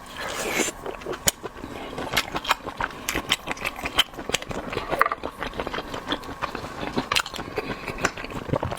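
Close-miked eating of abalone: a dense, irregular run of wet clicks, smacks and small scrapes from chewing and handling the food.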